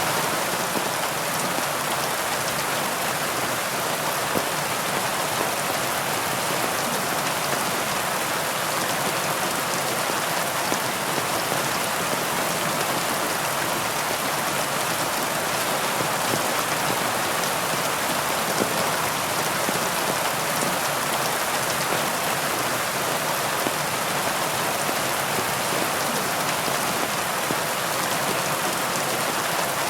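Steady heavy rain falling, an even hiss of dense raindrops with no let-up.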